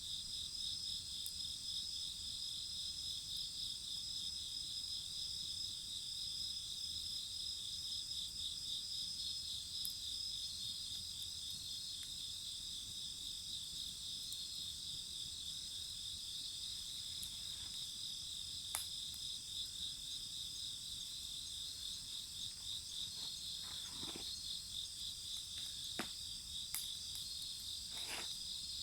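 A steady chorus of insects chirping in fast, even pulses, with a few sharp pops from the wood fire near the end.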